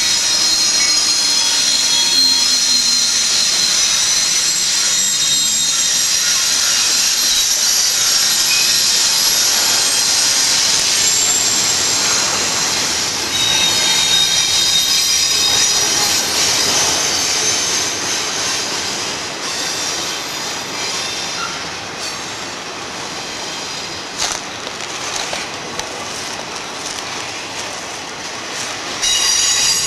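Train passing with its steel wheels squealing on the rails: several high, steady squeal tones over the rumble and rattle of the rolling cars, easing off somewhat in the last third.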